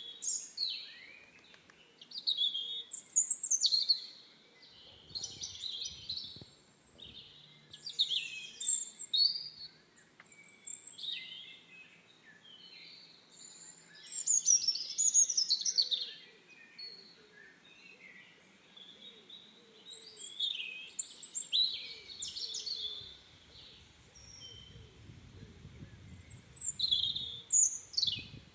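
Birds singing: short, high chirping phrases that come in bursts every few seconds, with quiet gaps between.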